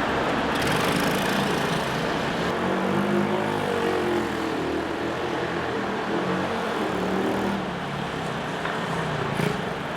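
Small motorcycle engine running on a track, its pitch rising and falling a few seconds in as the rider accelerates and lets off.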